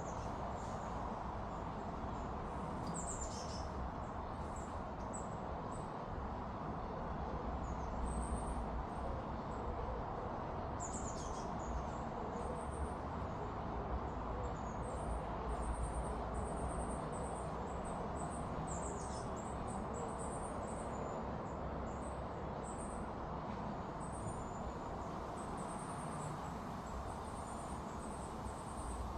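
Small birds chirping: many short, high-pitched chirps repeating throughout, with a few brief falling calls, over a steady background rush.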